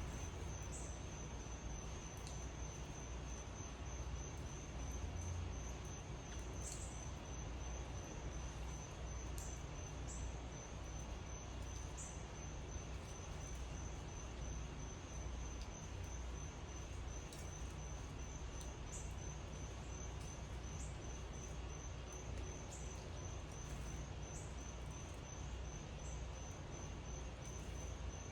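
An insect calls steadily in rapid, even pulses on one high pitch, with short, higher chirps every second or two and a low steady rumble underneath.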